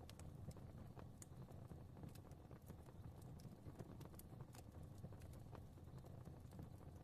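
Fire crackling softly: small irregular pops and snaps, several a second, over a low steady rumble of burning.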